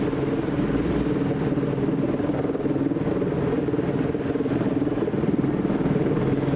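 Large diesel engine of a fire apparatus running steadily at low speed, with a fast, even throb.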